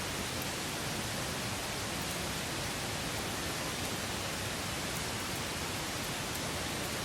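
Wood campfire burning with a steady hiss and a few faint, tiny crackles.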